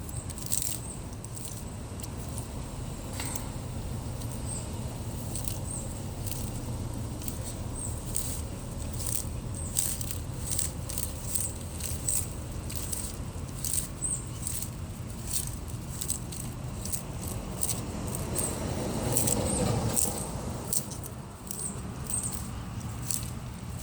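An animal chewing and crunching on something hard and crisp: a rapid, irregular run of crunches, louder and busier for a moment near the end.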